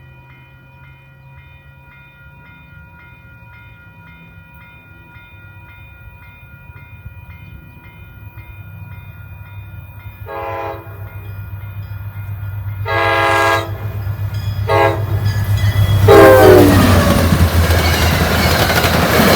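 Grade-crossing bell ringing steadily as an MBTA GP40MC diesel locomotive approaches, its engine growing louder. About ten seconds in, the locomotive sounds its horn in four blasts, the crossing signal, the last running into the loud rush and rumble of the train passing close by.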